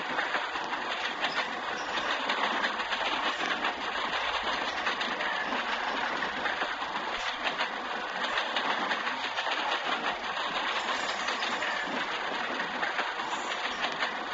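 Indian passenger train running along the track: a steady rattle and clatter of wheels and carriages, with quick clicks throughout.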